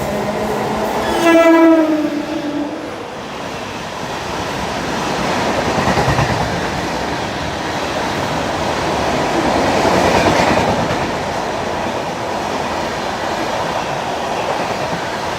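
Express train sounding its horn in one short blast about a second in, then running past with a steady rush and clatter of wheels over the rails that swells twice.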